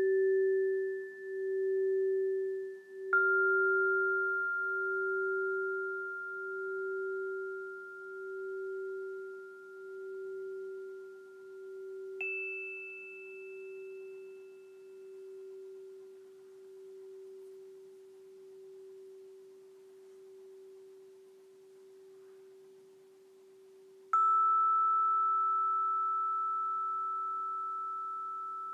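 Alchemy crystal singing bowl ringing on one low sustained tone that pulses in slow waves and gradually fades. Three single high bell-like notes are struck over it, each ringing out and fading.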